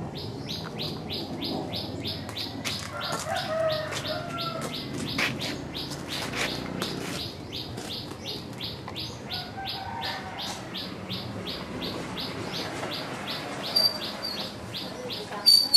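A small bird repeating a short, high chirp about three times a second, with a few sharper, higher notes near the end.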